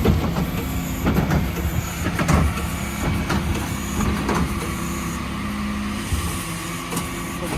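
Dennis Elite 6 refuse truck running with a steady engine drone. Sharp knocks and clatters come every second or so through the first half, as recycling is tipped into the truck.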